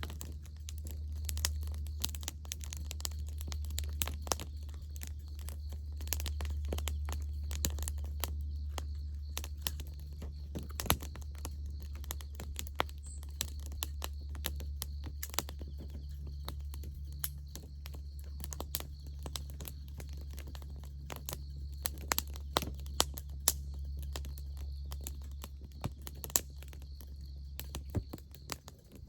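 Wood campfire crackling, with irregular sharp pops over a steady low hum.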